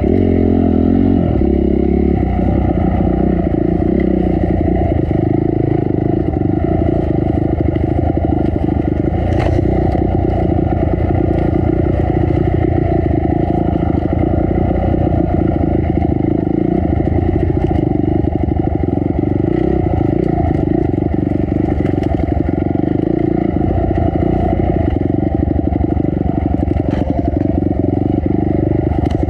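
Dirt bike engine running continuously under riding load, the revs rising and falling over the first couple of seconds and then holding fairly steady, with a few sharp clicks and knocks scattered through.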